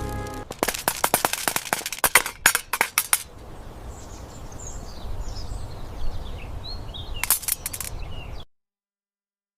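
A rapid volley of sharp cracks like small-arms or toy gunfire sound effects for about three seconds, then a quieter stretch with faint high squeaks, and a second short burst of cracks near the end before the sound cuts off suddenly.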